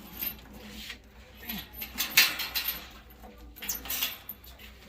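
Irregular rustling and light clattering of items being handled, loudest about two seconds in.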